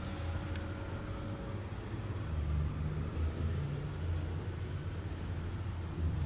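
Steady low mechanical hum from running machinery, with a single light click just after the start.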